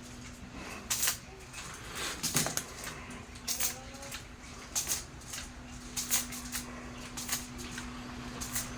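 Irregular sharp clicks and knocks, roughly one a second, over a faint steady hum.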